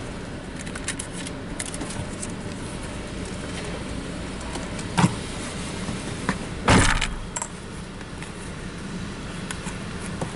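A car engine idling steadily, with a few small clicks, a knock about five seconds in and a brief clattering jangle about seven seconds in, like keys or small items being handled.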